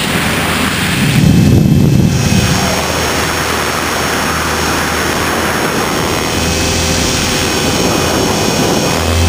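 HK500 500-size electric RC helicopter in flight, heard from its onboard camera: rotor and motor noise with a steady high whine over a broad rush. It gets louder for about a second shortly after the start.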